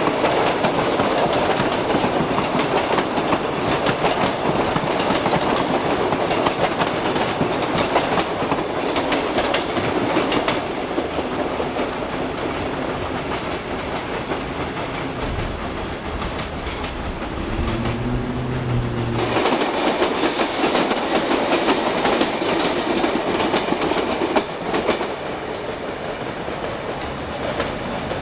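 Train running along the track, its wheels clattering over rail joints in a dense run of clicks. The sound changes abruptly twice, and a brief low steady tone sounds about two-thirds of the way through.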